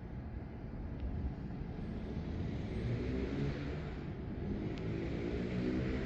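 A motor vehicle passing, its engine note growing louder through the second half, over a steady low rumble.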